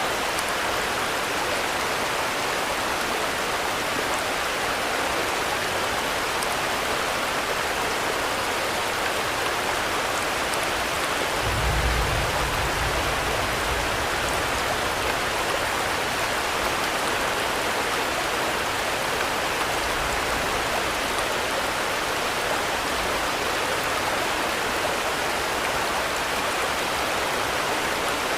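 Steady heavy rain falling. A low rumble rises under it about twelve seconds in and fades over several seconds, with a weaker one later.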